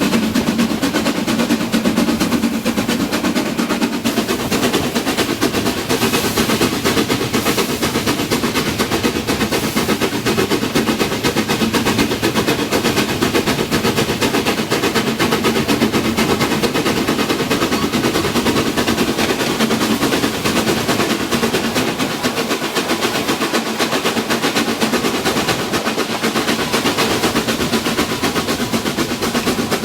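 Narrow-gauge train running at a steady pace, with a rapid, unbroken clatter of mechanical beats.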